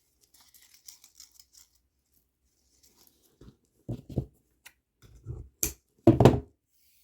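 Handling of string and plastic beads: faint light ticks at first, then a few short scrapes and rustles in the second half, the loudest near the end.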